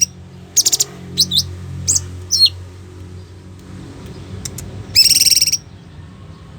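Cungkok bird calling: a quick run of notes and three short whistles sliding down in pitch in the first few seconds, then a loud, harsh, buzzy call about half a second long around five seconds in. A steady low hum runs underneath.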